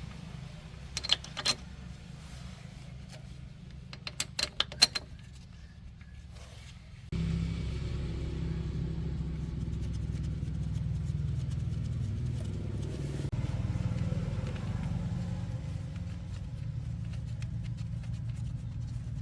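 Heavy-duty truck engine running steadily, with a few sharp metallic clicks in the first few seconds; about a third of the way in the engine sound jumps suddenly louder and stays there.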